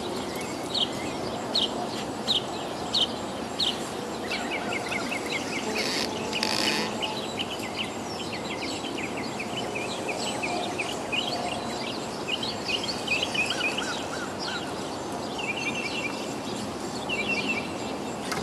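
Birds singing over a steady outdoor background noise: first a run of short, evenly repeated chirps about one a second, then quicker trilled phrases. A brief rush of noise comes about six seconds in.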